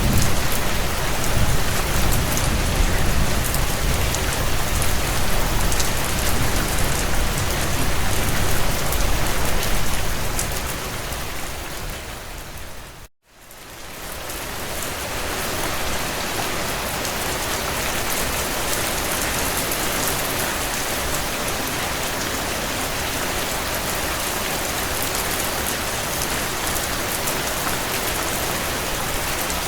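Steady heavy rain on a window, with a low rumble under it for roughly the first ten seconds. About thirteen seconds in, the sound fades out to a moment of silence and fades back in, the join of a looped recording.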